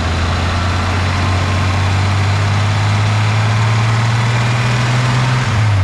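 BMW N54 inline-six held at a steady raised rpm, around 3,000, then dropping back toward idle near the end. It makes a ticking that is new to its owners, who suspect a turbo manifold leak or something in the valve train such as the cam chain.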